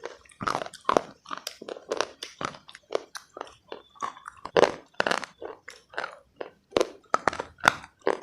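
Close-miked chewing of something dry and brittle: a steady run of crisp crunches, about two to three a second.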